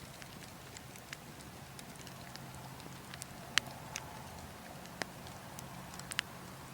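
Wood logs burning, crackling with scattered sharp pops (the loudest about three and a half seconds in, a quick pair near the end), over a steady low rumble of wind.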